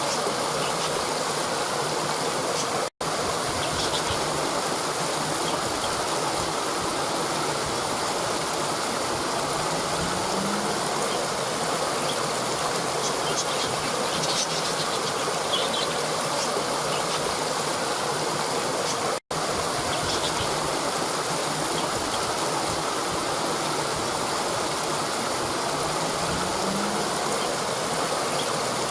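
Waterfall pouring over rocks: a steady rush of water with faint bird chirps. The sound cuts out for an instant twice, about 3 seconds and 19 seconds in.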